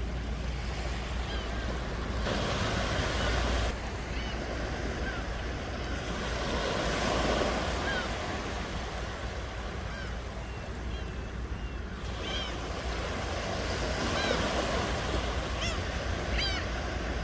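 Ocean surf: waves washing in and breaking in swells, with short bird calls over it that come more often near the end.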